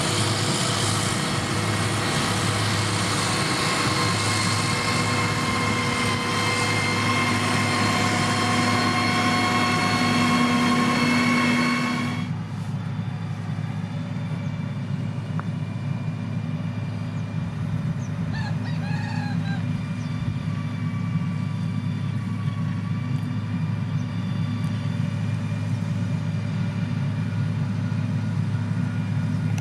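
Diesel engine of heavy road-building machinery, likely a motor grader, running hard with a dense, high-pitched mechanical noise. About twelve seconds in it drops suddenly to a low, steady hum. A brief bird call is heard near the middle.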